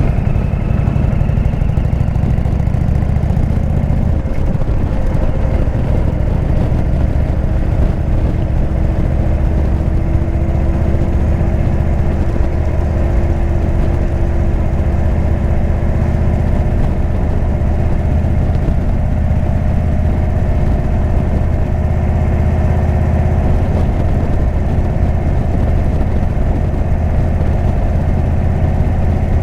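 Indian V-twin motorcycle engine with a Jekill & Hyde exhaust running steadily at a low, even engine speed, its note drifting only slightly up and down.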